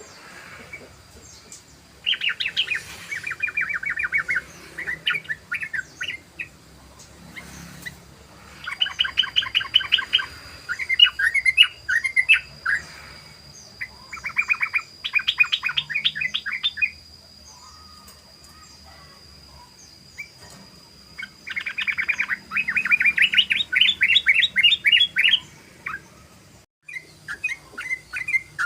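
Yellow-vented bulbul (trucukan) singing its rapid rattling 'ropel' song: four long bouts of fast repeated bubbling notes, separated by short pauses.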